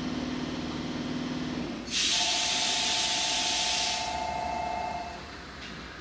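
Tokyo Metro Tozai Line electric commuter train standing at a platform: a steady low hum, then about two seconds in a sudden loud hiss of released compressed air lasting about two seconds, with a steady two-note tone alongside that stops about five seconds in.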